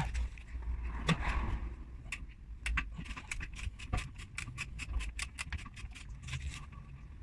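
Quick, irregular metallic clicks and clinks of hand tools working on metal, several a second in the middle, over a low rumble.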